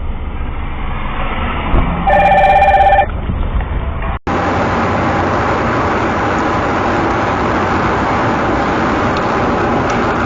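Steady vehicle road noise with a one-second electronic beep about two seconds in; after an abrupt cut, steady road noise continues.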